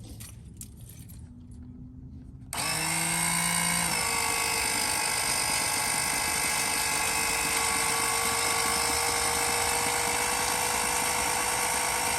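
12-volt electric oil-extractor pump switching on about two and a half seconds in, its motor whine climbing briefly and then holding steady as it draws the old oil out of the generator's crankcase. A few faint clicks of handling come before it.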